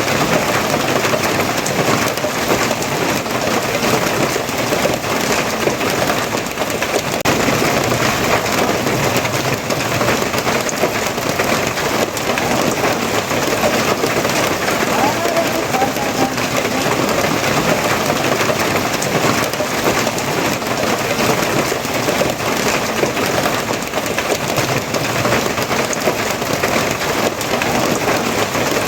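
Steady, heavy rain falling, an even dense hiss of drops with no pause or change.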